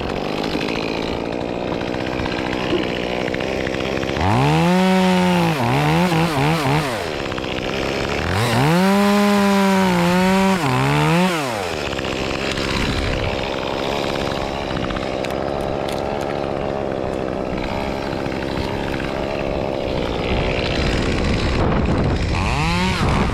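Echo CS-2511T two-stroke top-handle chainsaw idling, then opened up to full throttle twice for a few seconds each, with the pitch wavering as it is blipped or loaded. It drops back to idle and starts to rev again near the end.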